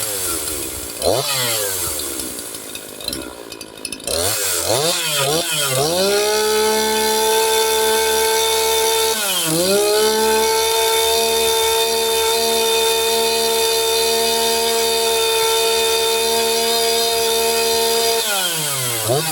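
Echo CS-4910 two-stroke chainsaw, its muffler restrictor removed, free-revving. It settles low at first, is blipped several times, then is held at full revs for about twelve seconds with one brief dip partway through, and drops back toward idle near the end.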